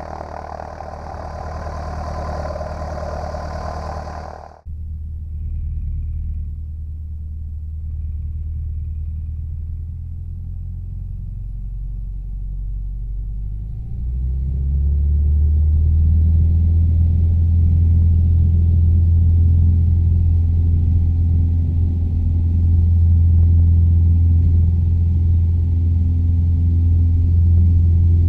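Cessna 150's four-cylinder Continental O-200 engine and propeller running steadily at low power, with a broad rushing hiss over it for the first few seconds before the sound changes abruptly. About thirteen seconds in the engine is opened up, rising in pitch and growing much louder, then holds a steady full-power drone, as for a takeoff.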